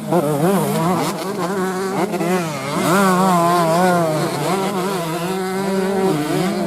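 Several racing motorcycle engines revving together, their pitch rising and falling quickly as the riders work the throttle, over a steadier engine note.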